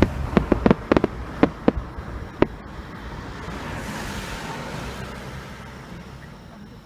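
Fireworks bursting: a quick string of sharp bangs over the first two and a half seconds, then a soft hiss that swells in the middle and fades away.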